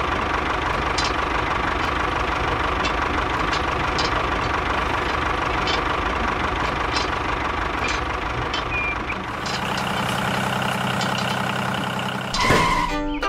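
A motor vehicle's engine running steadily with a regular knock. About nine and a half seconds in it changes to a smoother, more even hum, with a brief whoosh just before the end.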